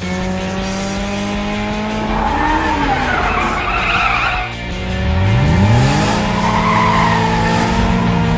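Cartoon race-car sound effects over background music: a tyre screech about two seconds in, then an engine revving up in a sharp rising pitch about five seconds in, followed by another screech.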